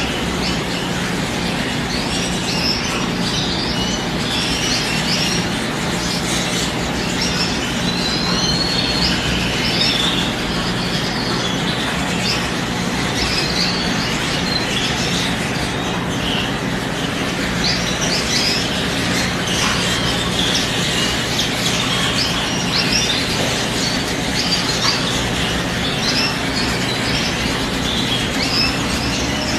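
Many small birds chirping and twittering continuously in short, overlapping high calls, over a steady rushing noise with a low hum beneath.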